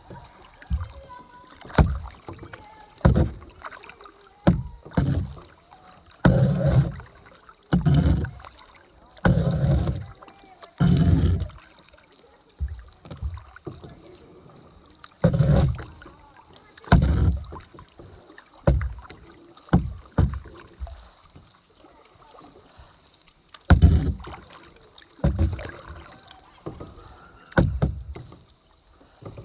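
Kayak being paddled: a short low thump and splash from each stroke about every second and a half, pausing for a few seconds twice.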